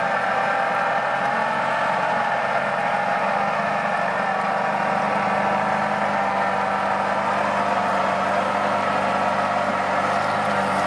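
An off-road SUV's engine running with a steady, unbroken drone.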